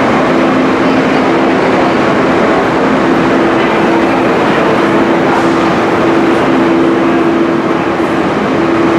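Train running, a loud, even rumble with a steady hum through it.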